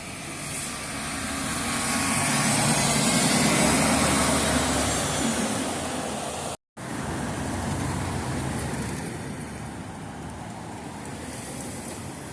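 Road traffic: a motor vehicle passes close, its noise swelling over the first few seconds and then fading, followed by steady street traffic noise. The sound cuts out for an instant about six and a half seconds in.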